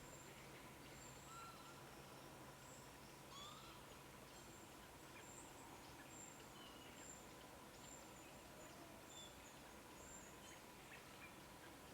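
Faint bird calls over a quiet hiss: scattered short, high chirps and brief whistled glides.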